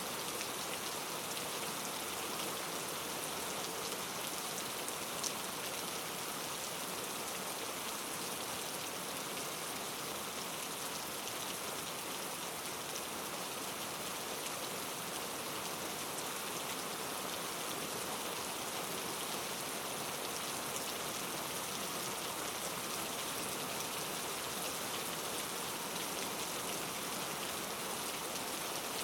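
Steady rain falling in an even, dense patter.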